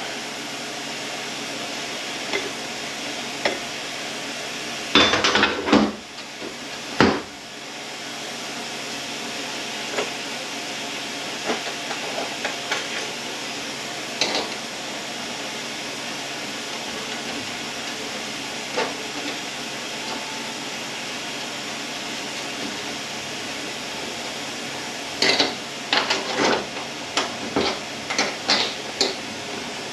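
Metal tools and parts clinking and clanking on a transmission being taken apart, with scattered knocks, a loud cluster about five to seven seconds in and a quick run of clanks near the end. Under it a steady shop fan hum.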